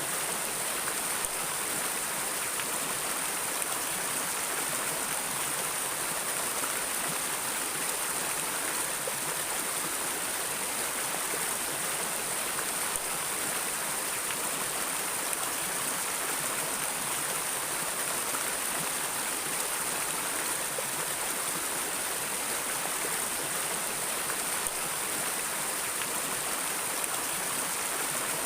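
A stream of flowing water, running steadily with an even hiss and no breaks.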